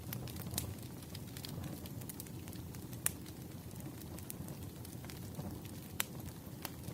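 Wood fire crackling: a steady low rumble with irregular sharp pops and snaps, the loudest about three seconds in and again about six seconds in.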